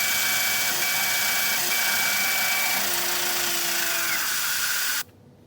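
Manual milling machine drilling steel with a 31/64 drill under a mist coolant spray: a steady hiss over the machine's hum, with a high squeal that comes and goes. It cuts off suddenly near the end.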